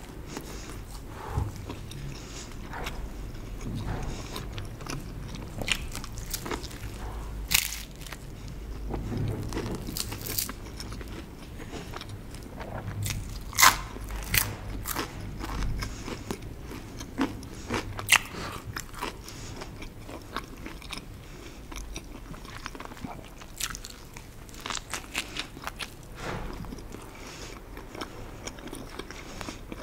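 Close-miked eating of cheese-stuffed bread: steady chewing with crunches and sharp mouth clicks scattered throughout, the loudest a little after halfway.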